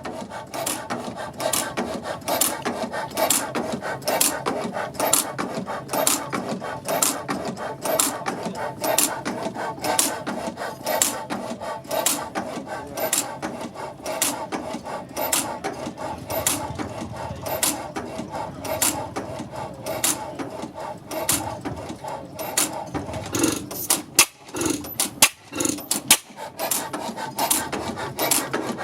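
Old stationary gas engine running slowly, with a steady rhythm of sharp mechanical clicks over a continuous clattering noise.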